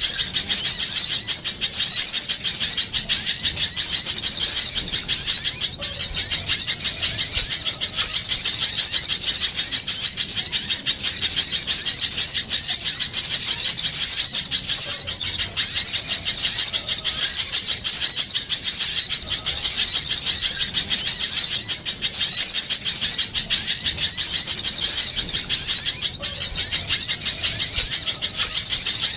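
A dense, unbroken chorus of many small birds chirping and twittering at a high pitch. It is an excited, noisy small-bird lure call of the kind used to draw other small birds in for trapping.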